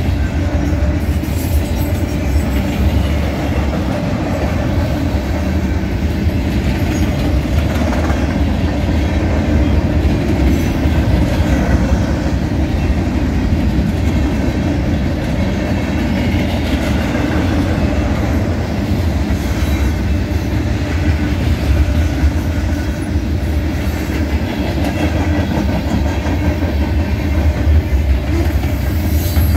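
Freight train cars rolling past close by: a steady, loud rumble of steel wheels on the rails, running on without a break.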